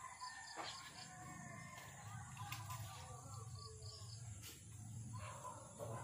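Faint bird calls: short high whistles near the start and about three seconds in, and a longer wavering call from about two seconds in, over a steady low hum.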